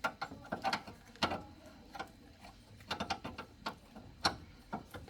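Metal hand tools clicking and clinking irregularly in small clusters while work is done on a car.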